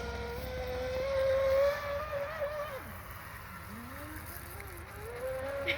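Electric motor of a Traxxas radio-controlled boat whining at speed. The pitch sinks sharply about three seconds in as the throttle is eased, then climbs back up near the end as the boat speeds up again.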